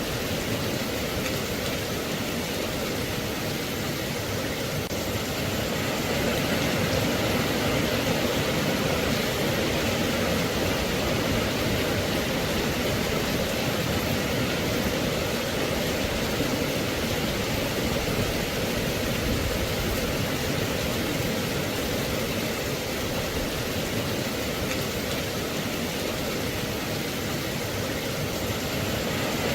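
Steady rainfall: an even, unbroken hiss with no single drops or thunder standing out, growing slightly louder about six seconds in.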